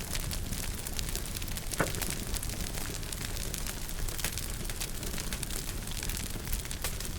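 Wood fire in a fireplace crackling: many small snaps and one louder pop about two seconds in, over a low steady rumble of the flames.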